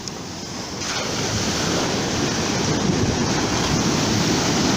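Ocean surf breaking and washing up the beach at the water's edge, with wind buffeting the microphone. The wash swells louder about a second in and stays loud.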